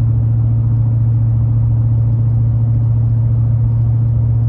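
Truck fitted with a Banks Monster aftermarket exhaust, running with a steady, deep, mellow low drone that holds one even pitch.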